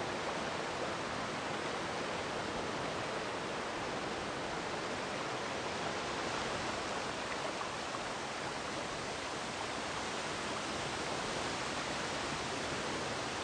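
Waterfall: water falling down a rock face into a pool, a steady, even rush of noise.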